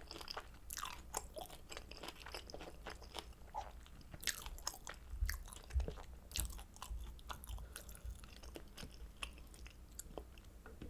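A person chewing and biting into kimchi dumplings: an irregular run of wet mouth clicks and smacks, with a few louder bites around the middle.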